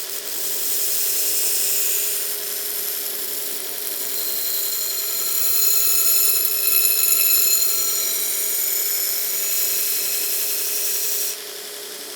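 Belt grinder with a 36-grit belt grinding the bevel into the other side of a railroad-spike knife blade. A loud, high grinding hiss of steel on the belt starts at once and cuts off suddenly near the end, over the grinder motor's steady hum.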